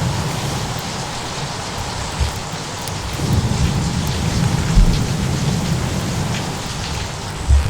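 Steady heavy rain with rolling thunder that swells about three seconds in, with a few short low thuds. Faint fire crackles sound through it.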